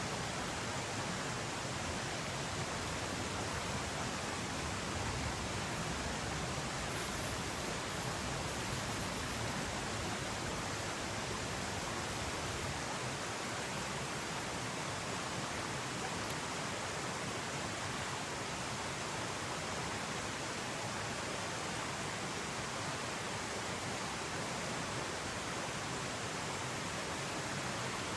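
A steady, even rushing noise, like running water, with no separate clicks or tones.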